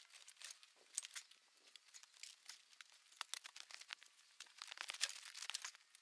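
Faint, irregular crinkling and crackling, a run of small sharp crackles that grows busiest near the end.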